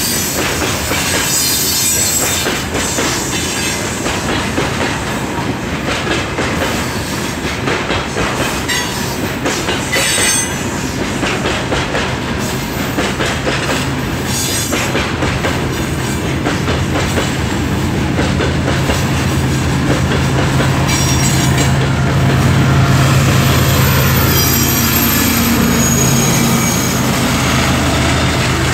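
A freight train's wagons rolling past with the knock and clatter of wheels over rail joints, then the pusher locomotive, a TE33AC diesel, passes under power. Its engine drone builds from about halfway and is loudest a few seconds before the end.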